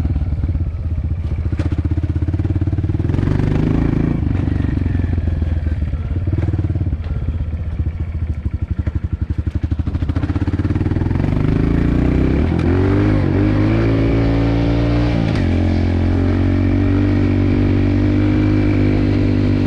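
Dirt bike engine running, dropping to a slow putter about eight seconds in, then revving up with rising pitch and settling at a steady, higher engine speed.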